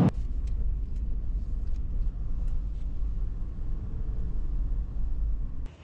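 Steady low road and engine rumble inside a moving Toyota 4Runner's cabin, with a few faint light ticks.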